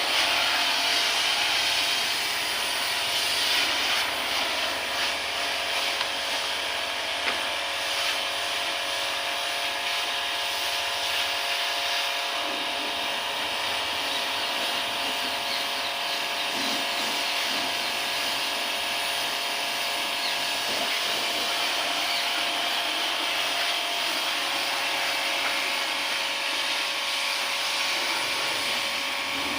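Car wash machinery running steadily: an even hiss with a constant machine hum underneath, with no pauses.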